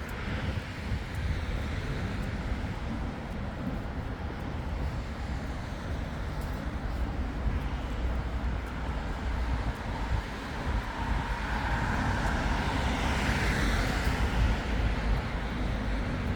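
Road traffic going by, with a vehicle passing close that swells to its loudest near the end. Wind rumbles on the microphone.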